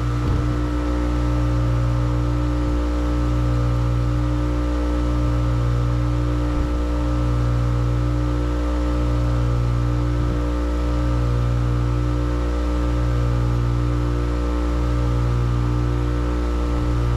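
Steady machine hum made of several fixed tones, with a low throb that swells and briefly dips about every two seconds.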